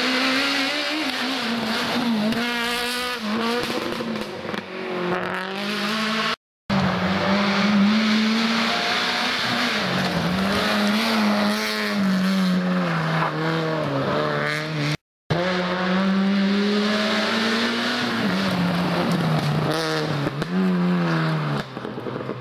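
Rally car engines run hard on a special stage, revving up and dropping back again and again through gear changes. The sound comes in three sections split by two sudden short silences.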